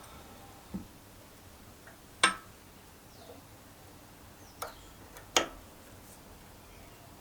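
Tools or stove parts being handled: four separate sharp knocks and clicks, the two loudest a little over two seconds in and about five and a half seconds in.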